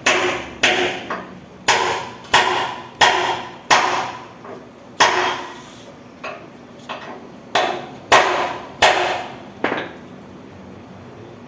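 Hammer blows on metal: about a dozen sharp strikes at an uneven pace, each ringing briefly, with a few lighter taps between them, stopping near the end.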